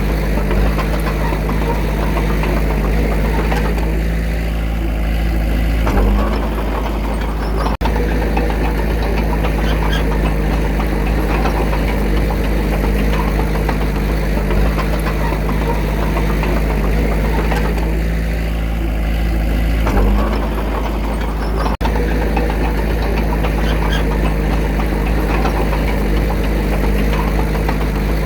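Diesel engine of a Komatsu D21A bulldozer running steadily with a deep rumble. It eases off twice for a couple of seconds and then picks up again.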